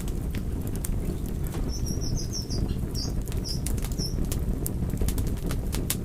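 Wood fire crackling: a steady low rumble of the flames with frequent sharp pops and snaps. From about two seconds in to about four, a run of short high-pitched squeaks or chirps sounds over it.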